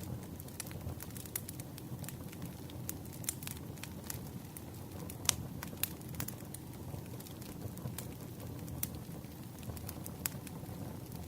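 Wood campfire crackling: a steady low rumble of burning with irregular sharp pops and snaps, the loudest about five seconds in.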